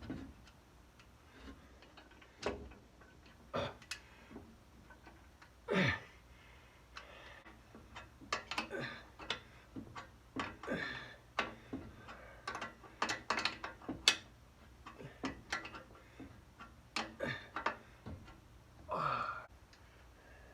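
Irregular metallic clicks, taps and clinks of hand work fitting a carburetor to an engine's manifolds, some in quick clusters, with two short sliding sounds that drop in pitch, one about six seconds in and one near the end.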